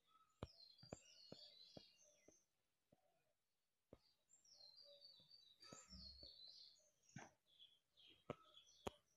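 Near silence: faint high chirping of small birds in the background, with scattered faint clicks.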